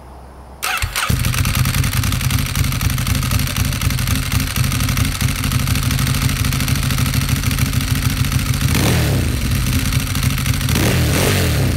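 Ducati Streetfighter's L-twin engine starting through an Arrow slip-on exhaust with its dB inserts removed: a brief crank, catching about a second in, then idling loud with a low, grumbly tone. It is revved briefly twice in the last few seconds.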